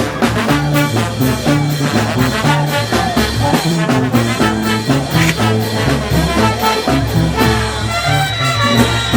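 Peruvian brass band playing: trumpets and trombones carry the tune over a steady drum beat.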